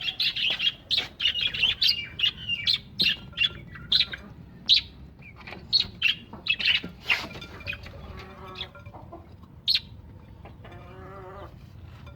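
Caged birds chirping in many short, high, rapid calls that thin out after about seven seconds, with a few lower calls near the end.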